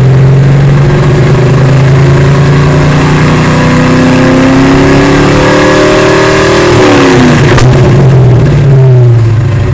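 Ford Mustang GT's 5.0 (302) V8 running loud through a Pypes exhaust with an off-road X-pipe, revved up slowly for a few seconds, then dropping back about seven seconds in. There is a single sharp click just after the drop, and the revs fall once more near the end.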